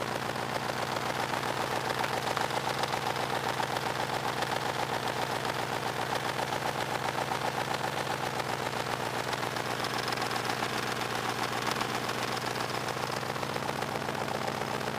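Rover V8 engine, an aluminium pushrod V8 fitted in a Willys Jeep, idling steadily with an even, fast pulsing beat.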